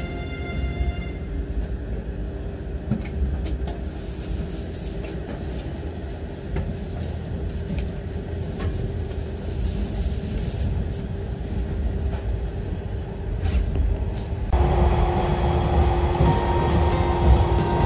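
JR 185-series electric train running, heard from inside the carriage: a steady low rumble of wheels and running gear as it pulls out of the station. About fourteen and a half seconds in the sound turns suddenly louder, the train running at about 110 km/h.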